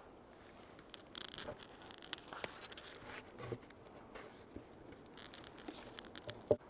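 Faint handling noises from working an open beehive: scattered light clicks and scrapes, a short rustle about a second in, and a sharper knock near the end.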